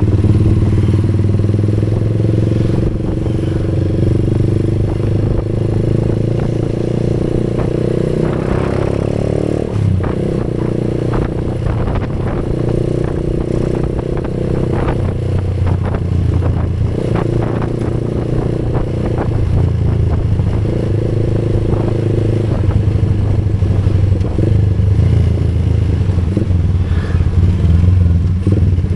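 Motorcycle engine running while riding. Its pitch climbs from about eight seconds in and drops off suddenly near ten seconds, like a gear change. Light clatter and rattles run over it.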